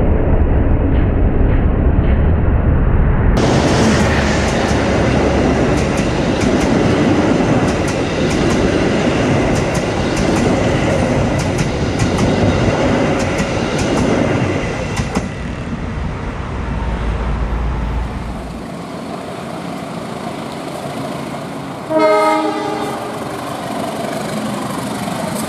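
Passenger train rolling past at close range: a steady rumble of wheels on the track, with repeated clicks as they cross the rail joints. Near the end, a diesel locomotive horn sounds once, briefly.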